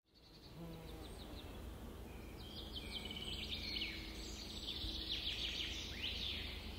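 Birds chirping and trilling in many quick, high, falling notes over a low steady rumble, a faint woodland ambience.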